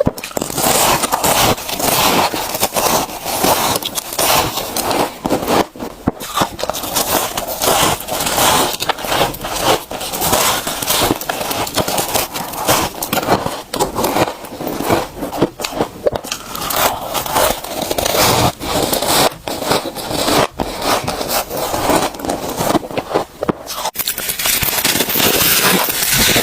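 Freezer frost being scraped and crunched: a dense, continuous crackling scrape of packed ice crystals, thick with sharp crackles.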